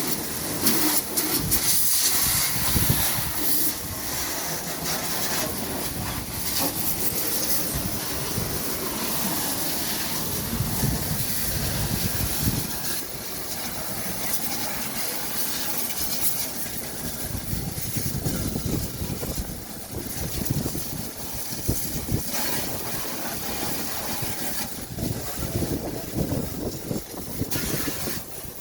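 Water jet from a washing hose spraying a vehicle with a steady hiss over a low rumble, the level rising and falling as the spray moves.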